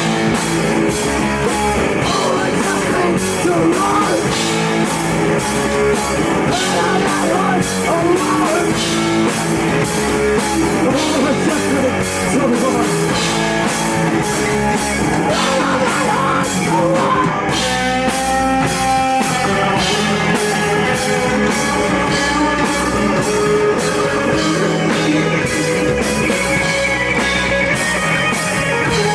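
Live rock band playing loudly, with distorted guitar, a drum kit and vocals. The drums drop out for a moment a little past halfway while held notes ring on, then the full band comes back in.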